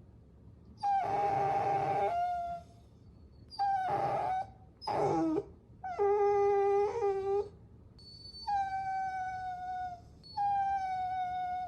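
Puppy whining: about six separate high-pitched whimpering cries with short pauses between them, several dropping in pitch at the end.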